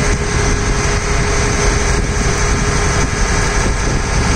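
Ferry boat's engine running steadily, a constant low rumble with a steady hum.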